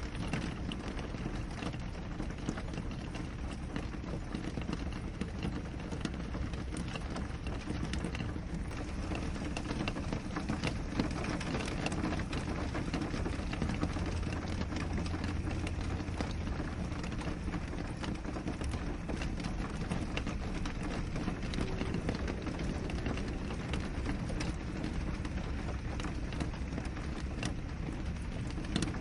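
Steady rain on window glass: a continuous even hiss with many small drop taps scattered through it.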